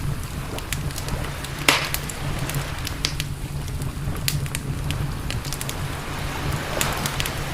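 Campfire crackling with scattered sharp pops of burning wood, one louder pop about two seconds in. A steady low rumble runs underneath.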